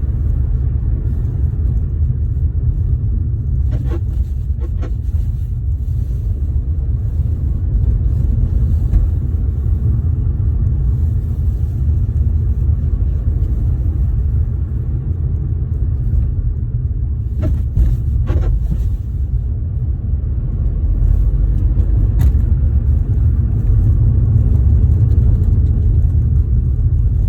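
Car driving with a steady low rumble, broken by a few short knocks: a pair about four seconds in, another pair around seventeen to eighteen seconds, and a single one near twenty-two seconds. These knocks are the suspension noise the owner is recording.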